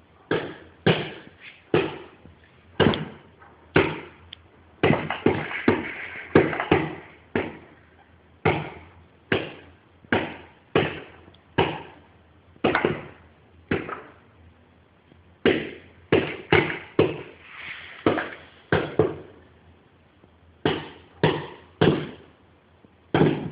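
A bird repeatedly striking a window pane: sharp taps and knocks on the glass, irregular, at roughly one or two a second, bunching closer together in a few quick flurries.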